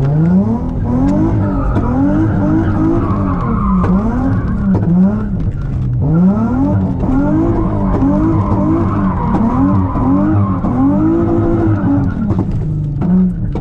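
Nissan 350Z's V6 engine revving hard, its pitch rising and falling again and again, heard from inside the cabin while the tyres skid and squeal in a drift. Near the end the revs drop back toward idle.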